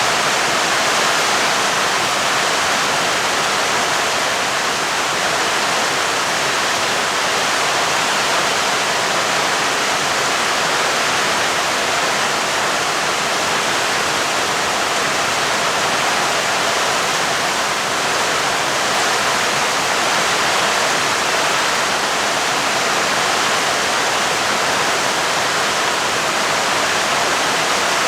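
Steady heavy rain: a loud, even hiss with no thunder and no change in intensity.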